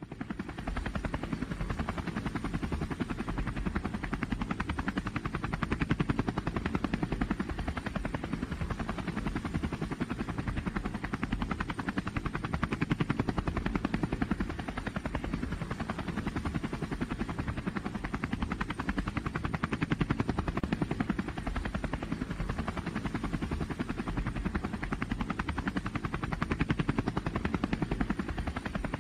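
Engine of a pulling vehicle at a truck and tractor pull, running hard with a fast, even pulsing beat that swells slightly every few seconds.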